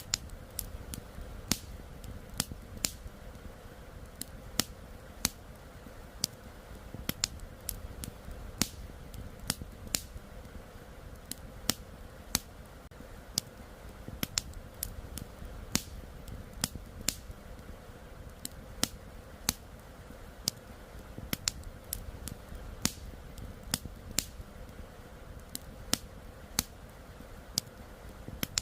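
Campfire wood crackling, with irregular sharp pops at uneven gaps, some louder than others, over a steady low background rush.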